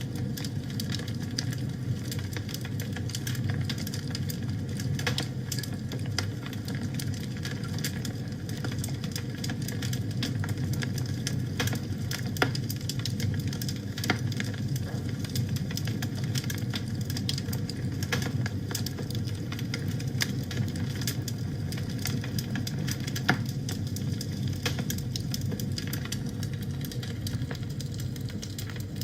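Wood fire burning in a fireplace: a steady low rumble with constant small crackles and snaps, and a few louder pops.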